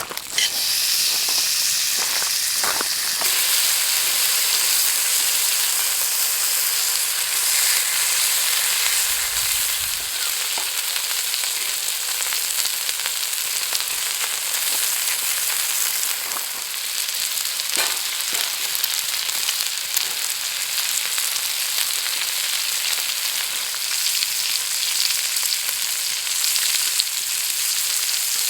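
Gopchang and makchang (grilled offal) sizzling on a hot grill over a campfire: a steady, loud fat-spattering hiss that starts abruptly, with small crackles throughout.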